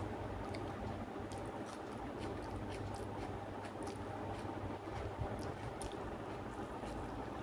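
Soft, wet mouth sounds of someone chewing a mouthful of rice, boiled potato and chicken curry eaten by hand, with faint scattered clicks, over a steady low hum.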